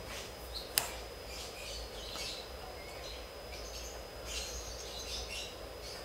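Faint birdsong, short high chirps scattered through, with one sharp click about three-quarters of a second in.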